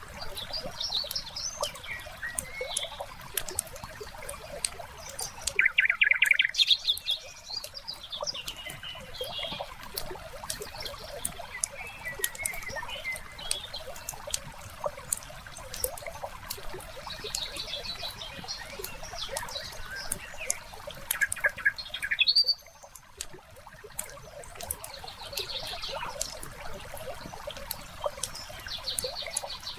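Fireplace crackling in a steady run of small pops, layered with songbirds chirping and trilling now and then. The loudest moments are short bird trills about six seconds in and again around twenty-one seconds in. The level drops suddenly partway through.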